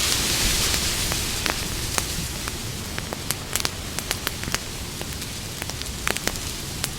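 Campfire crackling: irregular sharp pops and snaps of burning wood over a steady hiss and low rumble, with the hiss swelling briefly near the start.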